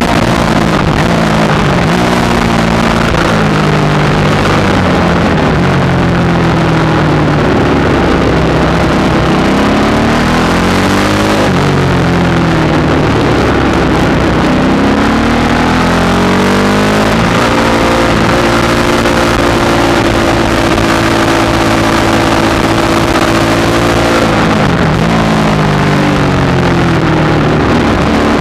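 Supermoto motorcycle engine heard onboard at racing pace, revving up through the gears with the pitch climbing in steps, dropping sharply on the brakes about 11 seconds in and again about 24 seconds in, and held steady for several seconds in between. Wind rushes over the microphone throughout.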